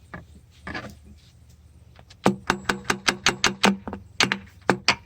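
Quick runs of sharp hammer taps on metal engine parts, about five a second, starting about two seconds in, each tap with a short low ring.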